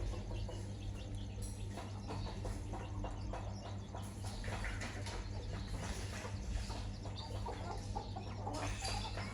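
Chickens clucking softly while they feed, with many small ticks and scratches throughout. A steady low hum runs underneath.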